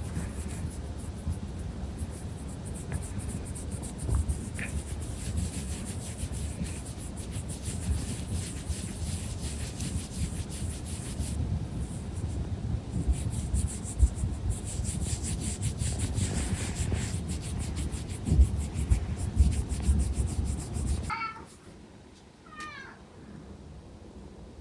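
Loud, close rubbing and scraping noise that stops suddenly, followed near the end by a tabby cat meowing twice.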